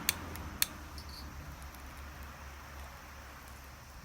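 Two sharp clicks about half a second apart near the start, then faint, sparse crackling ticks as the fire in a fire pit is being lit.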